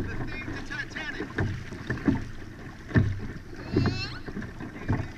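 Hobie Outback pedal-drive kayak under way: a steady low rumble of water and wind on the hull and microphone, with a knock or slap roughly every second. A small child's brief high vocalisation comes in twice.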